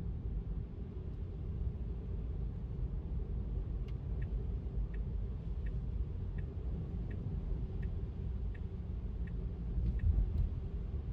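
Electric car driving on wet city streets, heard as a steady low road and tyre rumble. From about four seconds in, a turn-signal indicator ticks evenly, about three ticks every two seconds, for several seconds and stops shortly before the end.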